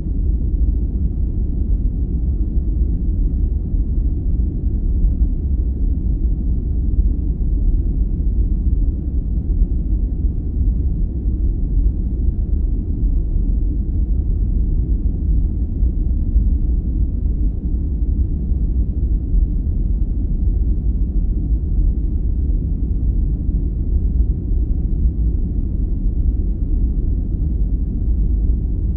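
Steady sleep-aid noise: an even, deep rumble with nothing high or hissy in it, unchanging throughout.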